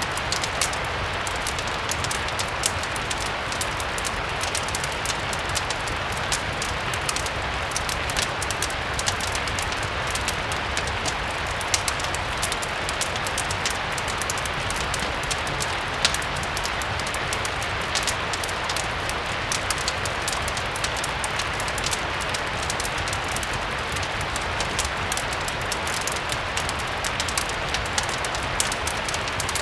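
Steady rain with many scattered sharp crackles and ticks, a mix of rain and a crackling fireplace.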